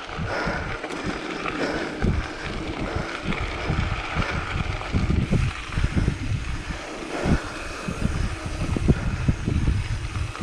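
Wind buffeting the microphone in irregular low gusts while riding a mountain bike into a headwind, over a steady hiss of tyres rolling on a dirt road shoulder.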